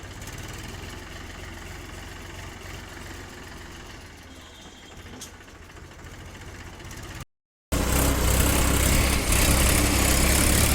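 Powertrac 434 tractor's diesel engine idling steadily. About seven seconds in there is a brief break in the sound, and then the engine is much louder.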